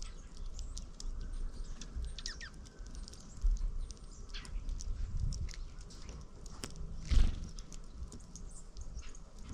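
Small birds chirping with many short high calls and a falling whistle, over low rumbling gusts of wind on the microphone.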